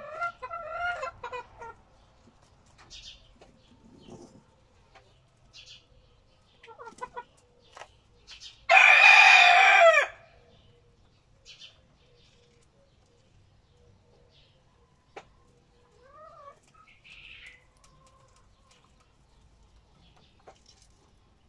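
A rooster crows once, loudly, for about a second and a half, roughly nine seconds in. Softer clucking calls come before and after it.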